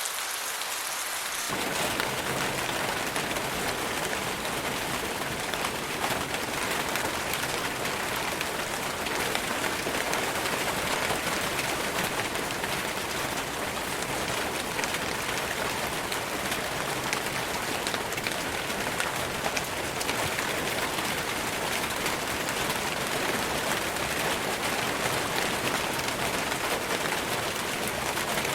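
Steady rain falling on forest foliage, a continuous dense patter. About a second and a half in, the sound abruptly becomes fuller and heavier.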